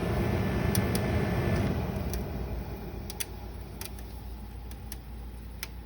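GE 30-pint dehumidifier running: a steady low hum with scattered sharp ticks. The run is louder for the first two seconds, then eases off. The owner hears an odd noise from it and wonders whether something is caught in the fan.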